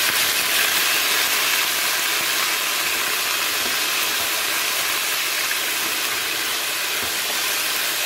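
Ginger-garlic paste frying in hot oil in a pot, a steady sizzling hiss, while it is stirred with a wooden spatula.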